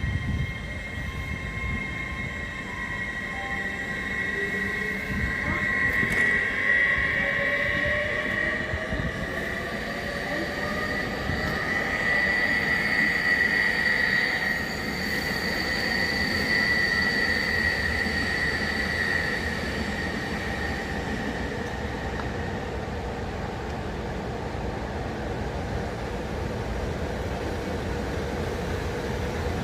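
Railway train running on the track, its wheels squealing in several steady high-pitched tones over a low rumble.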